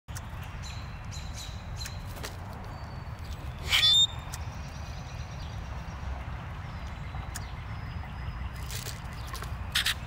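Backyard birds calling: thin high whistles and chirps, and one loud harsh squawk with a falling pitch about four seconds in. A steady low rumble runs underneath, and there are short loud bursts near the end.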